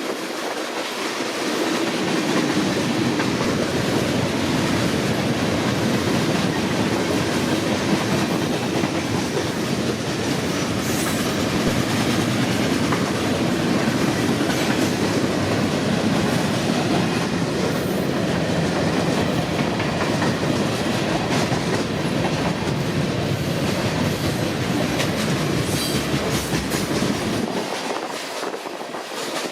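Union Pacific mixed freight train rolling past, wheels clacking over the rail joints with a steady rumble and rattle of the cars. The deep rumble drops away near the end.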